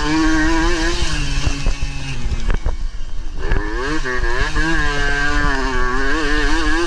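Suzuki AX100's single-cylinder two-stroke engine at race revs, pitch rising and falling with the throttle. It dies away briefly about halfway through as the throttle is shut, then picks back up and revs on.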